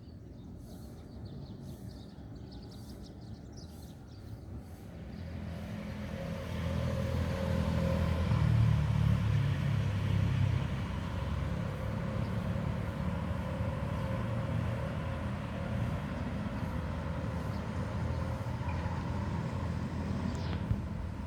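A vehicle engine running with a low hum, growing louder over the first several seconds and then holding steady.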